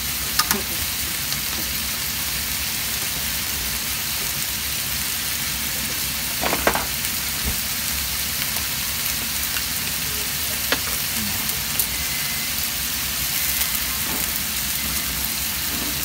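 Offal and vegetables frying in oil in a nonstick frying pan: a steady sizzle, with a few sharp clicks now and then.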